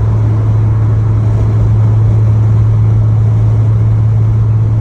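Nissan VQ V6 engine running at a steady idle, loud, with a strong low hum. It runs a little rough with a damaged exhaust flex pipe.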